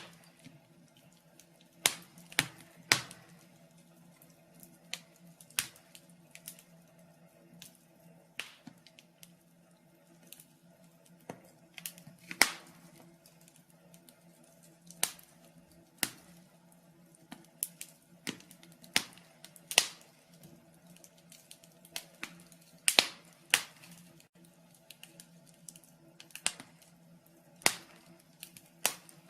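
Wood fire in a fireplace crackling: irregular sharp pops and snaps, about one a second and unevenly spaced, a few louder than the rest, over a faint steady low hum.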